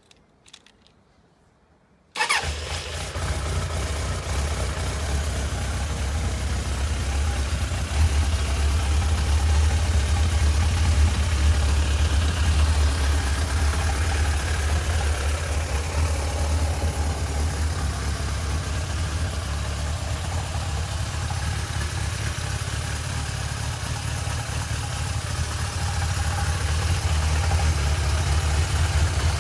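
1987 Suzuki GSX-R1100H's oil-cooled inline-four engine starting about two seconds in, after a couple of faint clicks, then idling steadily.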